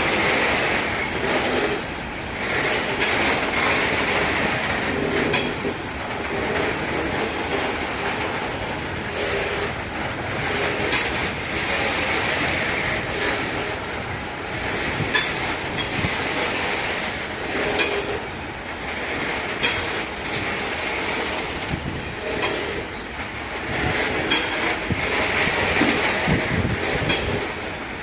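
Freight train wagons rolling past on the rails with a steady rumble. Sharp wheel clicks come every second or few seconds as the wheels cross rail joints, with some wheel squeal.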